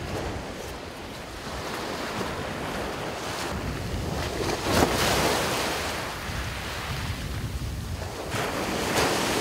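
Waves breaking and washing up a sandy beach, with wind on the microphone; the surf swells loudest about halfway through.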